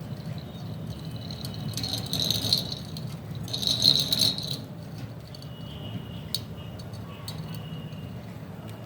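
Pet budgerigars chattering, with two louder raspy bursts of chatter about two and four seconds in, amid scattered short clicks over a steady low hum.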